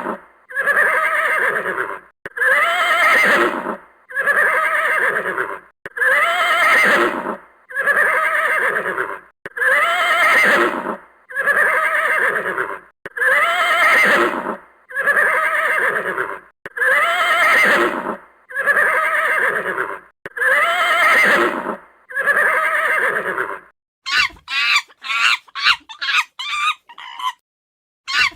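Horse whinnying over and over: about thirteen near-identical calls, each about a second and a half long, evenly spaced. Near the end it switches to quick, short chicken clucks, about three a second.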